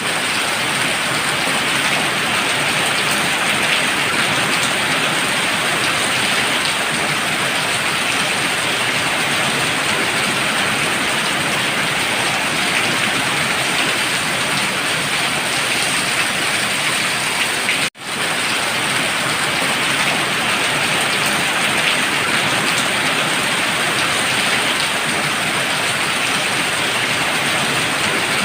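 Heavy rain pouring steadily, a dense even hiss of rain striking surfaces, with a split-second break about two-thirds of the way through.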